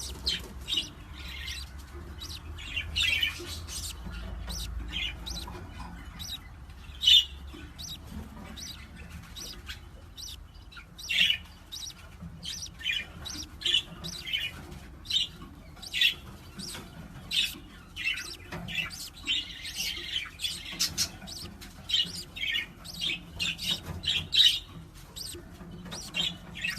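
Pet parrot chirping and squawking in short, sharp calls repeated every second or so, a few of them louder.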